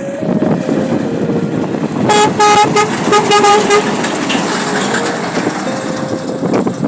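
Scania truck going by with engine and road noise, sounding its horn in a quick series of short toots about two seconds in, which lasts under two seconds.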